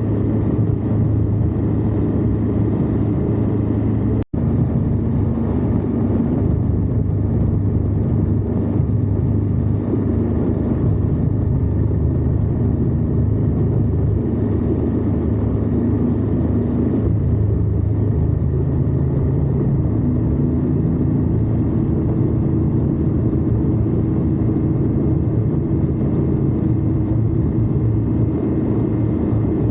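Indian Scout V-twin motorcycle engine running steadily while riding, with wind and road noise, picked up close by a camera mounted low on the crash bar. The sound cuts out for an instant about four seconds in.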